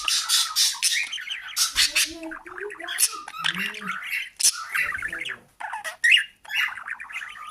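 Pet parrot chattering and squawking: a busy, irregular stream of short chirps, clicks and harsh calls, with a few lower, voice-like notes in the middle.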